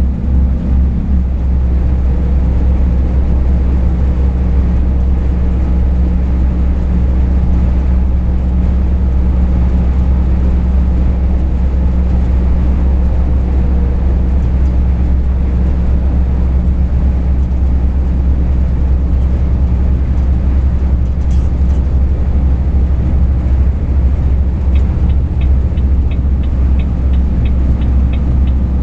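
Truck engine and road noise droning steadily inside the cab, heaviest in a deep low hum. A light, evenly spaced ticking joins in near the end.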